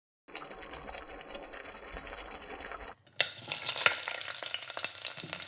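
Food frying in a pan and being stirred: a steady, even sizzle, then after a sudden cut about three seconds in, louder, brighter sizzling with sharp clicks from a utensil against the pan.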